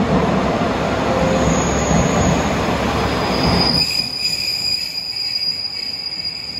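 JR West KiHa 120 diesel railcar pulling in alongside the platform: a loud rumble of the cars passing, which drops away about four seconds in, while a steady high squeal starts about three seconds in and holds as the train slows.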